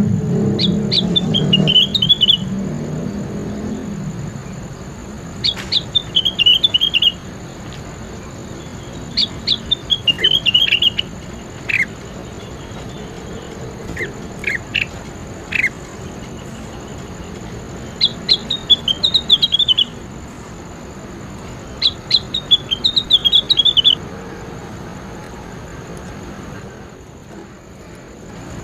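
A small songbird singing: short phrases of quick, high, descending chirps repeated every few seconds, with a few single sharp downward notes between them. A low rumble fades out over the first few seconds.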